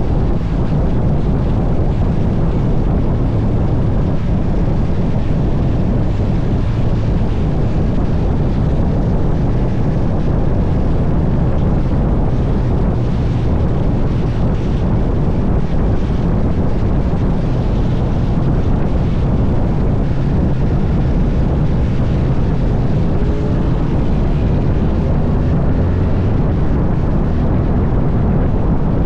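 Motorcycle engine running at road speed under steady, heavy wind rush on the microphone. Faint rising engine tones come through a little past three-quarters of the way in.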